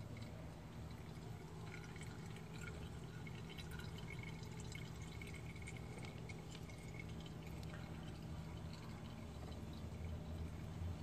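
Used motor oil being poured into a container, a faint trickle with small drips and gurgles.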